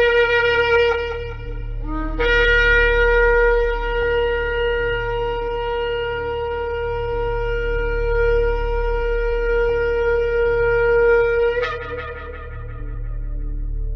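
Shofar blowing long, steady blasts. One blast ends about two seconds in, then a single held note of about nine seconds breaks upward at its end and trails off.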